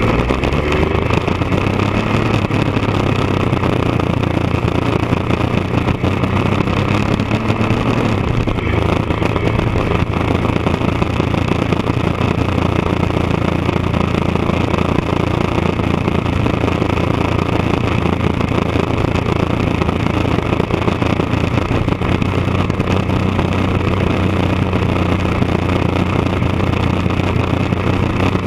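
1999 Triumph Daytona 955i's three-cylinder engine running steadily through an aftermarket D&D exhaust. Its pitch rises slightly just after the start and wavers a little before holding steady.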